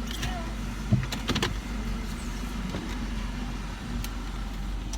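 Car engine idling with an electric power window motor running for a few seconds, after a few knocks about a second in.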